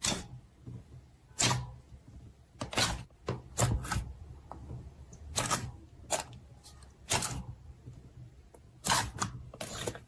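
Slime being squished and pressed, giving an irregular series of short sharp pops and squelches, about ten in all.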